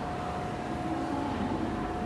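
Electric train running in the station: a steady rumble with a high, steady whine through it.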